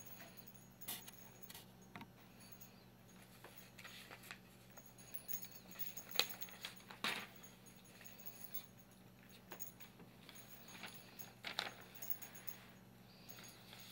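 A cockatiel's small metal bell toy jingling and clinking in irregular knocks as the bird plays with it, loudest about six to seven seconds in.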